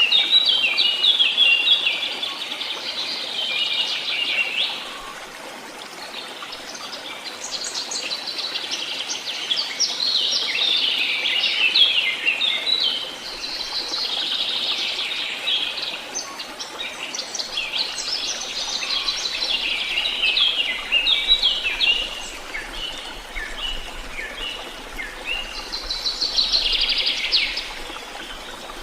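Songbirds singing in long, rapid twittering phrases, one after another with short pauses, over a steady background hiss.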